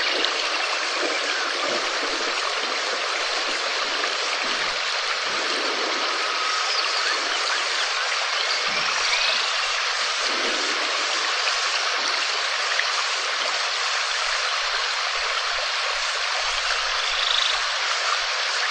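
Steady rain falling, an even hiss, with faint short chirps now and then.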